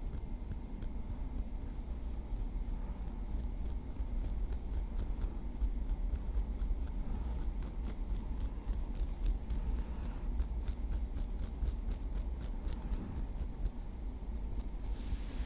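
A small wooden stick tapped and moved lightly in close-up, making a quick, uneven run of many soft, crisp ticks and clicks. A steady low rumble lies underneath.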